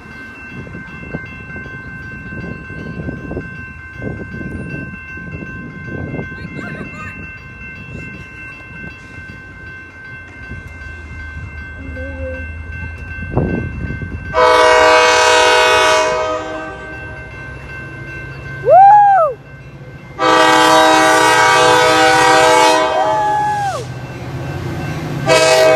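Coaster commuter train passing, its locomotive horn sounding loud multi-note blasts: a long one about halfway through, a brief one, another long one, and a third starting near the end. A low rumble of the train builds under the horn.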